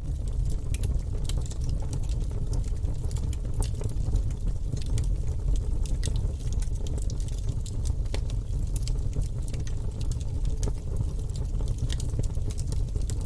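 Wood fire burning in a fireplace: logs crackling and popping many times over a steady low rumble of flame.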